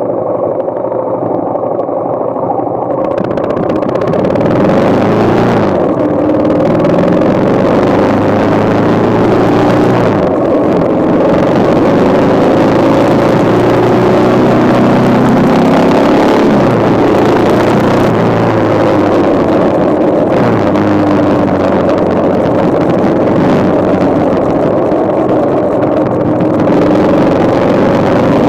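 Yamaha XT single-cylinder four-stroke motorcycle engine on the move. It gets louder about three seconds in as the bike pulls away, and the revs climb and drop back several times as the rider shifts up through the gears.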